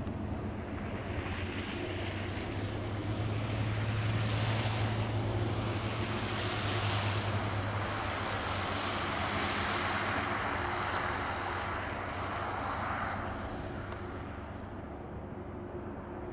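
Diesel freight train passing: a steady low locomotive engine drone with a rushing rolling noise that builds for about ten seconds and then fades away.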